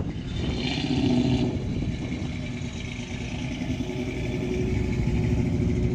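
A car's engine and exhaust running as it drives off, louder for about a second near the start, then steady.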